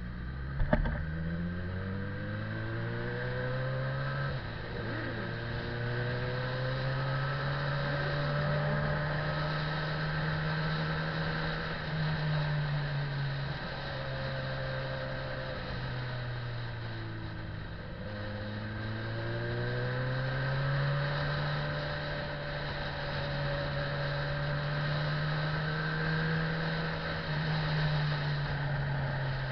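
Motorcycle engine running while the bike is ridden. Its pitch climbs in the first few seconds and then holds, drops with a gear change near the middle, sinks as the bike slows, then climbs again, with another gear change near the end. There is a short knock about a second in.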